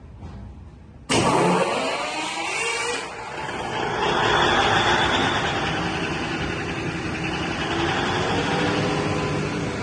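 Cummins KTA50 G3 V16 diesel engine comes in suddenly about a second in, shifts in pitch over the next two seconds, then runs steadily.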